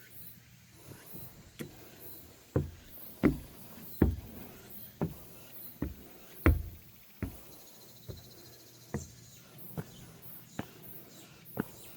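Footsteps on a wooden deck walkway, sharp knocks at a steady walking pace of a little over one step a second, starting about a second and a half in.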